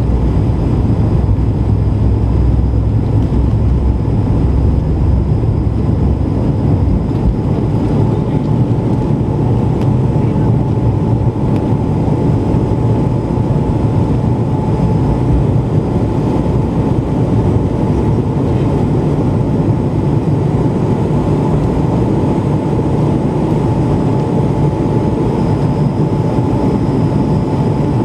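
Airbus A220-300 cabin noise in flight: the steady roar of airflow and the Pratt & Whitney PW1500G geared turbofans, with a thin steady engine whine. A heavy deep rumble in the first several seconds eases after that.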